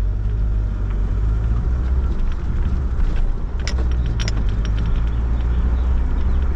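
Car driving, heard from inside the cabin: a steady low engine and road rumble, with a few brief clicks near the middle.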